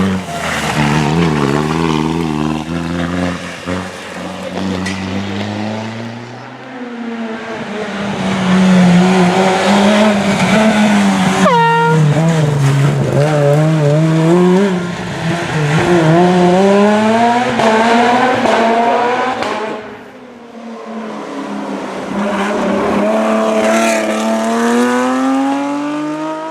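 Rally cars driven hard on a special stage: engines revving up and down through the gears, with tyre squeal. The engine sound drops away about twenty seconds in, then another engine builds up toward the end.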